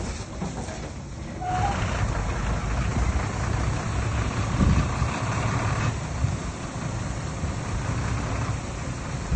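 Heavy diesel earthmoving machinery running with a steady low engine rumble.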